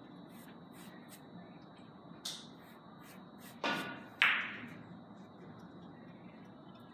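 Carom billiard balls clicking on a three-cushion table: three sharp clicks between about two and four seconds in, the last the loudest and briefly ringing, with faint ticks in the background.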